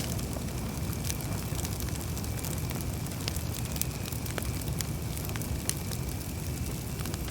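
Campfire burning with a low steady roar and many small crackles and pops, a sharper pop about four and a half seconds in. A faint steady high tone runs underneath.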